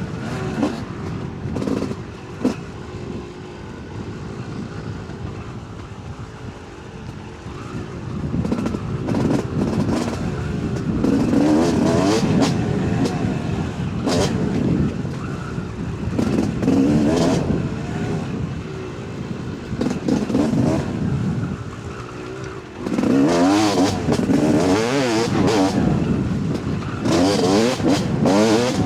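Yamaha YZ250 two-stroke dirt bike engine being ridden hard on rough ground, the revs sweeping up and down over and over as the throttle opens and closes. It is softer for a few seconds early on and loudest near the end, with sharp clatters from the ground and bike.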